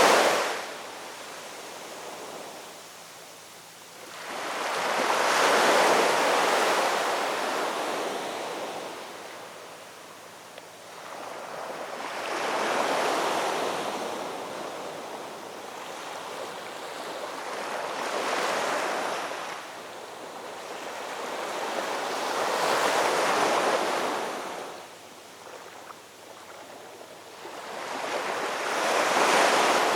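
Ocean waves breaking and washing up a shoreline: five surges of surf in turn, each swelling up and falling away, roughly every five to six seconds.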